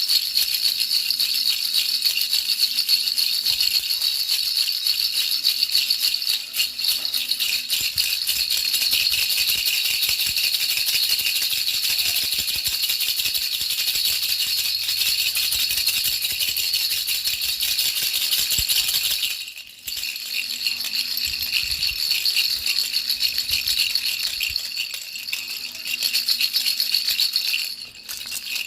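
Baby rattle shaken steadily, a continuous fine rattling kept up as soothing noise for a baby's sleep, with two short breaks, about two-thirds through and near the end.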